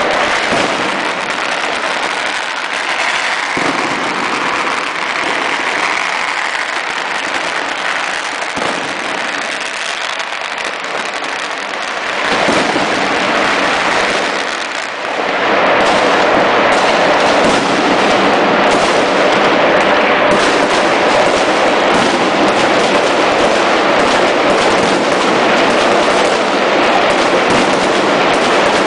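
Many fireworks going off at once in a dense, unbroken barrage of bangs and crackling, growing louder about halfway through.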